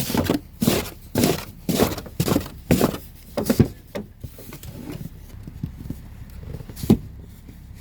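Footsteps crunching through deep snow, about two steps a second, stopping about four seconds in, with one more sharp crunch near the end.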